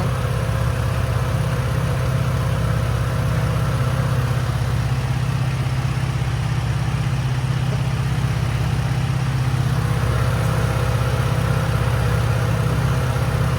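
Chevrolet Camaro's engine idling steadily, with an even low pulsing, while its air-conditioning system is being recharged with refrigerant.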